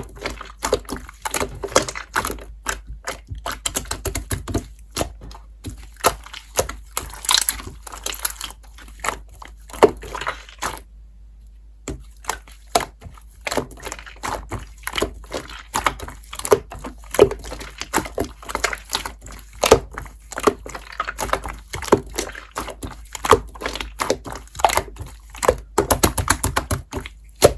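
Slime being pressed, stretched and squished by hand, giving a fast, irregular run of sharp sticky clicks and pops. The clicking stops for about a second around eleven seconds in, then resumes.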